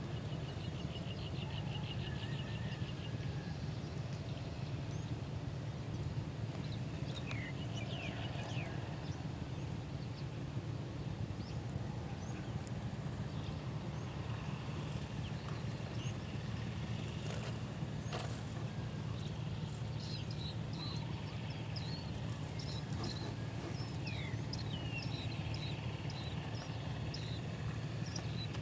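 Small birds chirping: a quick trill about half a second in, a few chirps around eight seconds, and a run of short high chirps in the last third, over a steady low rumble.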